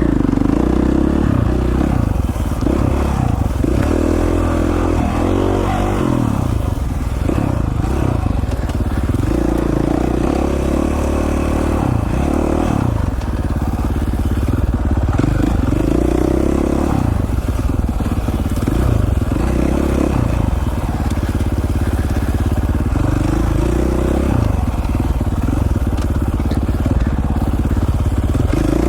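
2017 KTM 450 XC-F's single-cylinder four-stroke engine running under way, its revs rising and falling with the throttle every couple of seconds.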